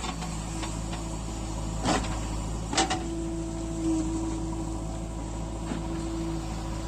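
A machine engine humming steadily, with two sharp knocks about two and three seconds in; a steady higher whine starts with the second knock and runs on.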